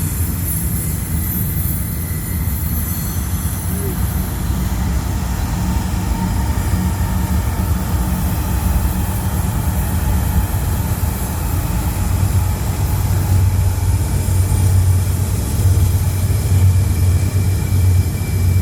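Freight train running past, with the steady low rumble of diesel locomotives and rolling rail cars that grows louder in the second half.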